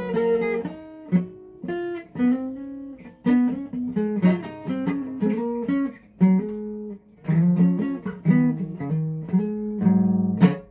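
Solo guitar playing a melody of plucked single notes mixed with strummed chords. The playing stops abruptly at the end.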